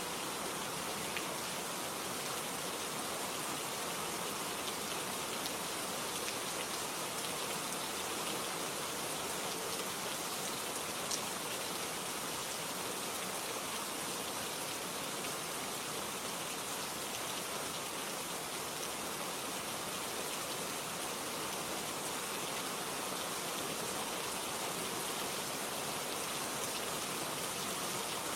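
Steady, even rain falling, a constant hiss with occasional faint drop ticks.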